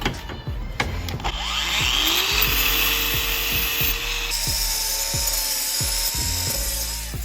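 A power tool with a wire wheel spins up with a rising whine about a second in, then runs steadily, brushing paint and dirt off the metal before welding. Its whine steps up to a higher pitch partway through and winds down near the end.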